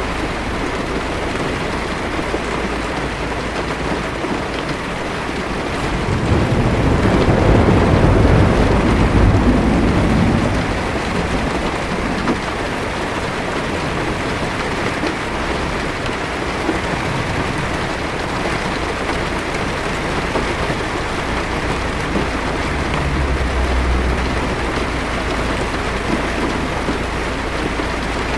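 Heavy rain drumming steadily on a car's roof and windshield, heard from inside the car. A low thunder rumble swells about six seconds in and fades out by about ten seconds, and a fainter low rumble comes near the end.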